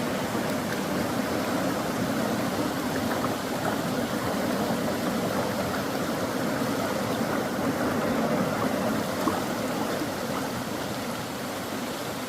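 A mountain valley stream rushing over rocks, a steady even rush of water.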